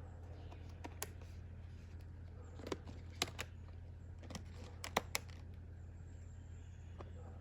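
About eight short, sharp clicks and taps, scattered through the middle of the stretch and loudest around halfway, over a steady low hum.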